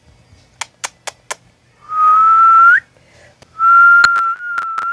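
A person whistling two single notes: a short one that bends upward at its end, then a longer steady one. A few sharp clicks come between and after them.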